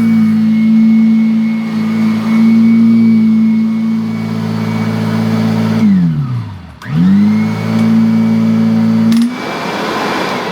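Kirby Avalier 2 upright vacuum running steadily with its motor whine and beater-bar agitation. About six seconds in it is switched off and winds down, then it is switched straight back on and spins up again. It cuts out near the end, leaving a fading rush of air.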